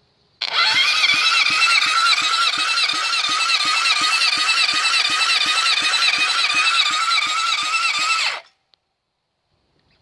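Car engine cranking over on its starter motor for about eight seconds during a compression test, with a compression gauge in cylinder 2. The starter's whine wavers with each compression stroke, about three a second, then cuts off suddenly. The cylinder reads only about 95 psi, low compression.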